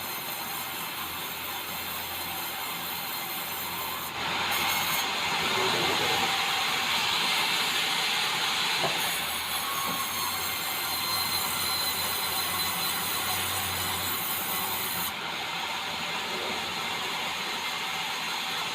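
Sawmill blade sawing through a white meranti log: a steady machine whine and rasp that grows louder and harsher about four seconds in as the blade bites into the wood, easing again about nine seconds in.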